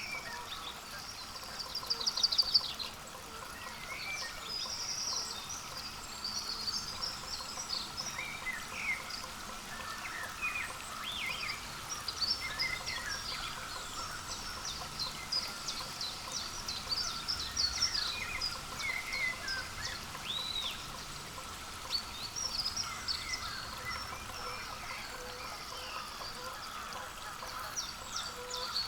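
Small wild birds chirping and calling throughout, many quick high chips and short trills overlapping one another, over a faint steady hum.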